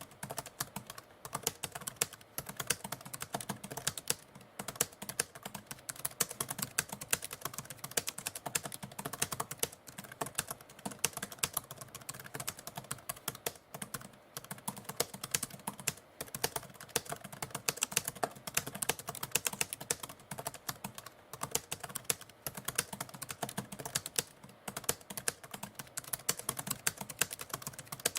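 Typewriter keys being struck in rapid, irregular runs of sharp clacks, with brief pauses now and then.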